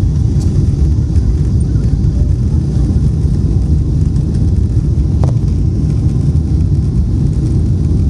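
Airliner cabin noise during the takeoff roll: engines at high thrust and runway rumble, a loud, steady low roar. A single brief click about five seconds in.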